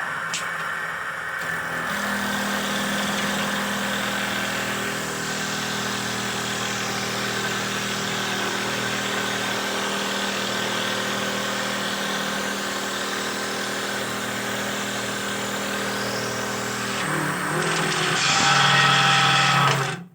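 Motor of a homemade wooden dowel-making machine running steadily. Its sound shifts and grows louder near the end, then stops abruptly.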